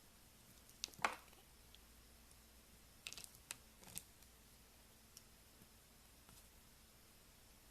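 A knife cutting into a bar of soap, giving a few short, crisp cracks and scrapes. The loudest comes about a second in, a quick cluster of them around three seconds, and another near four seconds.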